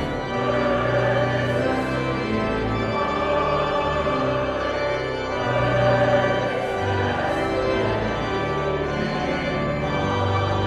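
Church organ playing full sustained chords, with the bass notes moving every second or so, at the close of a hymn.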